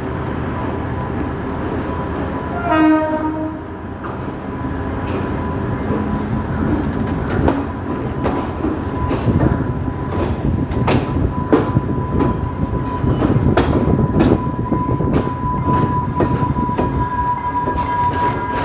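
Diesel commuter train running with a steady rumble. There is a short horn blast about three seconds in, then the wheels clatter over rail joints and points in quick irregular clicks that grow busier toward the end.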